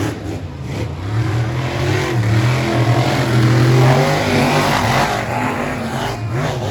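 Monster truck engines running hard under racing throttle. The sound builds to its loudest about halfway through, then eases a little.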